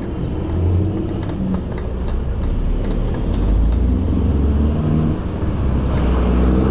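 Road traffic: the engines of cars and other motor vehicles running close by as a steady low hum.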